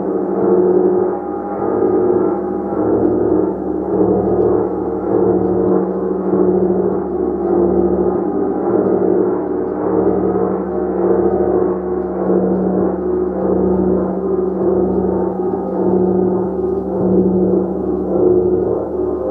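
Gong played continuously, a sustained dense wash of many overlapping ringing tones, with a strong steady low hum and gentle swells in loudness every second or so as it is kept sounding.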